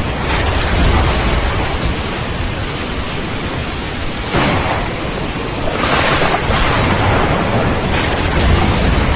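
Steady heavy rain with rolling thunder: low rumbling about a second in, a sudden swell about four seconds in, and a louder peak around six seconds.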